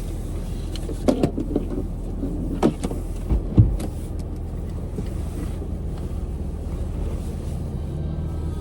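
Car engine idling with a steady low hum, with a cluster of knocks and clunks between about one and four seconds in.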